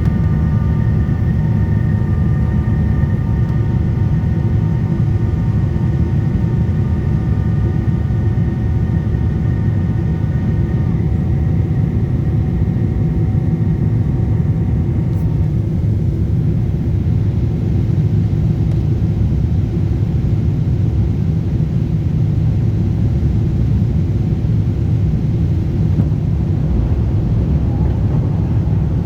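Steady low rumble of a Lufthansa Boeing 747-8 airliner, heard without change for the whole stretch. Several steady whining tones sit above the rumble; some stop about 11 seconds in and the rest about 15 seconds in.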